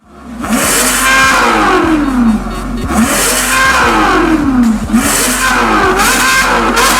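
Ferrari California's 4.3-litre V8 on a Fi aftermarket exhaust, free-revving three times. After each blip the pitch falls back down as the revs drop.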